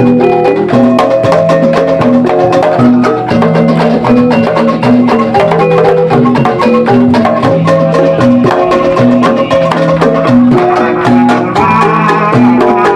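Javanese gamelan ensemble playing jathilan accompaniment: bronze-keyed metallophones struck in a rapid, steady pattern over held lower notes. Higher ringing notes join near the end.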